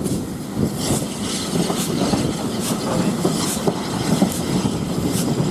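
Passenger train running along the track, heard from aboard: a steady rumble of the carriages with a regular click a little more often than once a second, as the wheels pass over rail joints.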